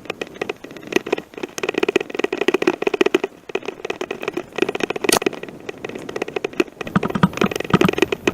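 Bicycle clattering and rattling along a rough forest road, with a dense, uneven run of clicks and knocks from the tyres on stones and the bike's parts shaking.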